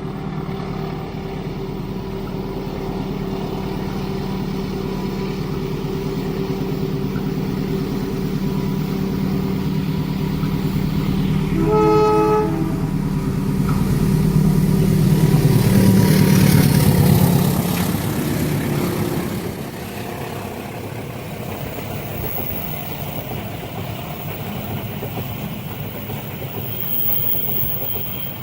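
Diesel locomotive approaching with a steady engine drone that grows louder, sounding its horn once for about a second about twelve seconds in. It passes loudest a few seconds later, then the engine sound falls away, leaving the steady rumble of the train's cars rolling by.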